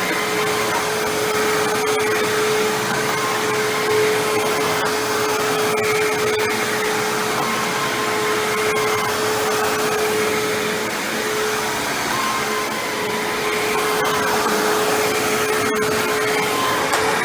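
Hoover WindTunnel self-propelled bagless upright vacuum running on carpet: a steady rushing motor noise with a constant whine, dipping slightly in loudness about two-thirds of the way through.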